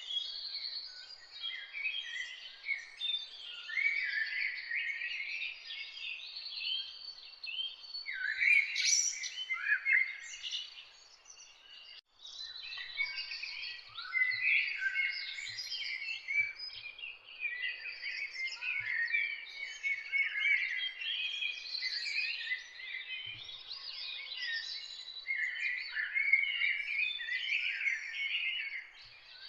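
A dense chorus of songbirds chirping and singing, many quick, overlapping high calls at once. It briefly drops out about twelve seconds in.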